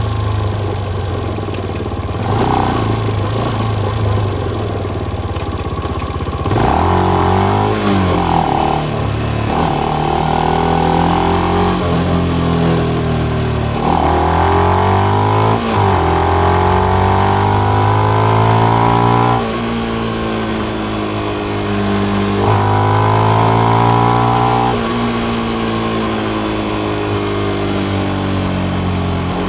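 Benelli BN125's single-cylinder four-stroke engine through its stock exhaust with the dB killer fitted. It runs at a low, steady note for about six seconds, then pulls hard, the pitch rising through several gear changes. It eases off once and accelerates again near the end.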